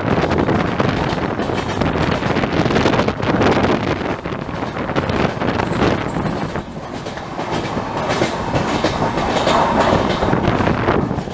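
Swaraj Express passenger train running at speed, heard from aboard: a steady rush of wheel and track noise with the clickety-clack of wheels over rail joints.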